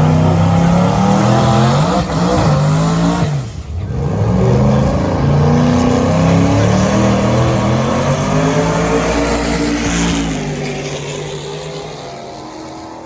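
Drag racing car engine at high revs, then accelerating hard down the strip. Its pitch rises in steps broken by gear changes, and the sound fades as the car pulls away near the end.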